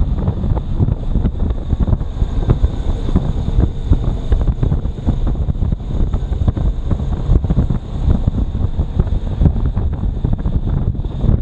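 Wind buffeting the microphone of a camera on a moving motorcycle: a loud, steady, gusty low rumble that masks the engine.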